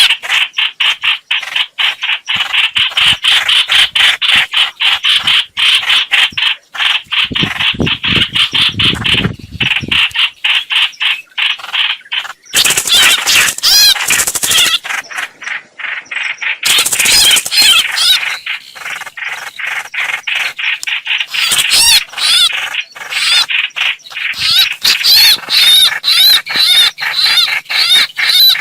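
A hoạch hoạch bird's call played as a trapping lure: a rapid, chattering series of short, high notes repeated many times a second, with brief breaks.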